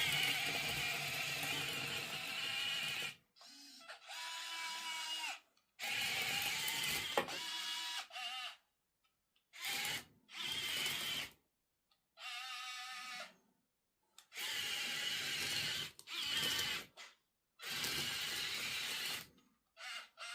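Small electric motors of 1:50 scale RC construction models (Yigong excavator and loader) whining in about a dozen short bursts of one to two seconds each, starting and stopping as the controls are worked.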